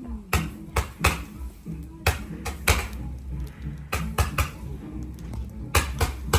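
Fireworks going off: a dozen or so sharp irregular bangs and cracks, some ringing on briefly, over music playing in the background.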